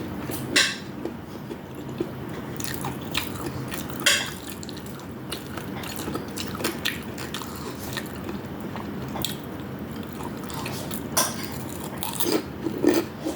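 Close-up eating sounds: chewing and biting into fried food, with scattered sharp crunches and clicks over a steady low background hum.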